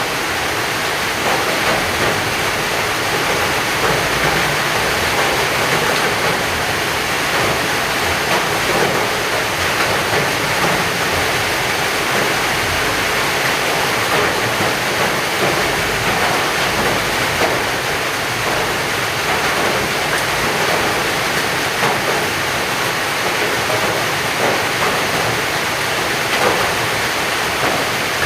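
Heavy rain falling steadily: a dense, even hiss made of countless small drop impacts, keeping up at the same loudness throughout.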